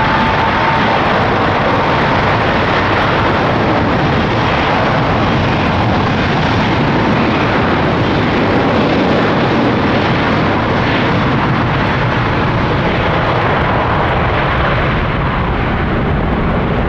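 Airbus A350-900's Rolls-Royce Trent XWB engines at takeoff thrust, a loud steady jet roar. A fan whine climbs and levels off in the first second.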